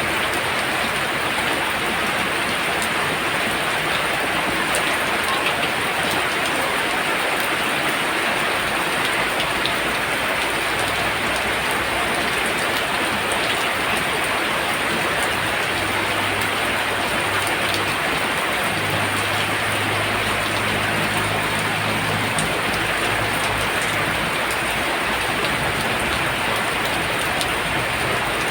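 Heavy rain falling steadily, a dense even hiss. A low hum joins it about eleven seconds in and fades out about four seconds before the end.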